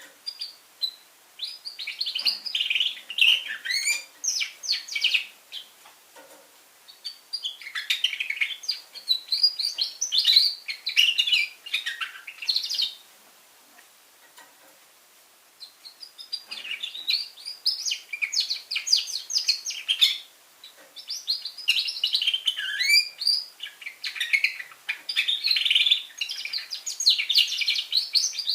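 Young red factor canary singing: long phrases of fast trills and chirps, broken by a pause of about three seconds near the middle.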